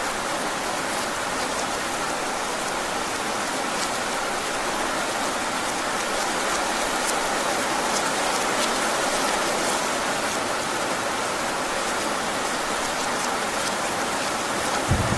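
Heavy rain falling steadily, with scattered individual drops ticking. A low rumble of thunder begins right at the very end.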